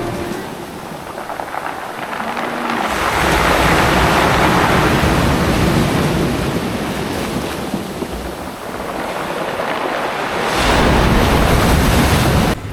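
Ocean surf washing in on a beach in two swells, with wind buffeting the microphone during the second; the sound cuts off suddenly near the end.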